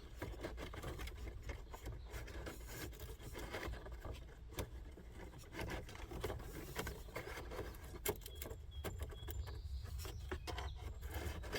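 A new cabin air filter's plastic frame rubbing, scraping and clicking in its housing behind the glove box as it is slid along its channel and pushed into place, with scattered small knocks.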